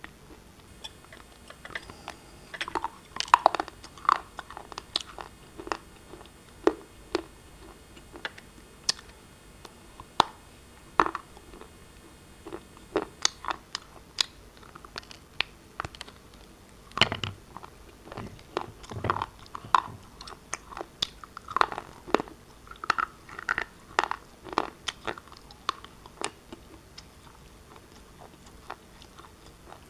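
Pieces of black shale being bitten and chewed close to the microphone: a string of sharp, irregular crunches, with denser, louder runs a few seconds in and again past the middle.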